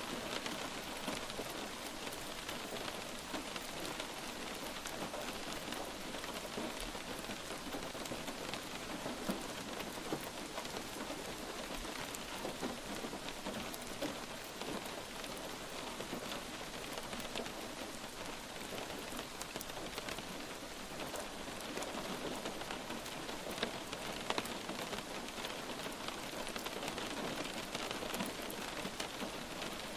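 Steady light rain falling, an even hiss with scattered individual drops ticking on a surface.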